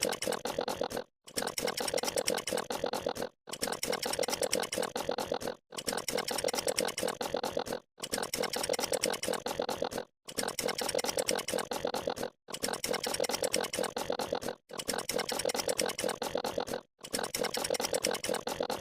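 A short sound effect played over and over in a loop, about nine times, each pass lasting about two seconds with a brief silent gap before the next. Each pass is a fast, buzzy pulsing.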